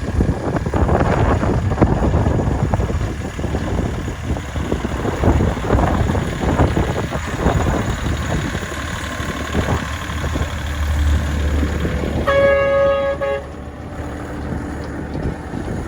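Miniature railway locomotive sounding one horn toot about a second long, near the end, over steady wind rumble on the microphone.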